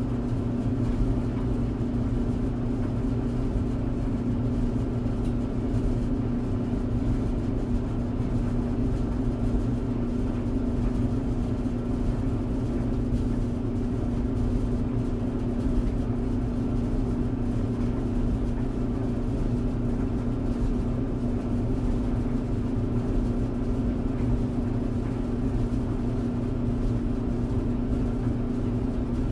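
Tumble dryer running steadily: a constant hum with a low rumble underneath, no change in level.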